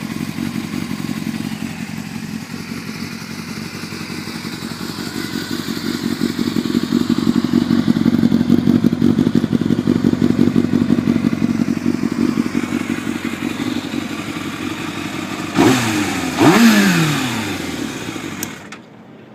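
2002 Yamaha YZF600R's carbureted 600cc inline-four running through a carbon fiber Scorpion exhaust, a steady idle that grows louder toward the middle. Near the end the throttle is blipped and the revs fall back, then the sound cuts off abruptly.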